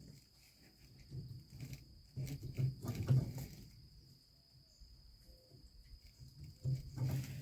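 A steady high insect trill, typical of crickets, runs underneath. Twice, louder scraping and knocking of parts and tools being handled rises over it: once about two seconds in and again near the end.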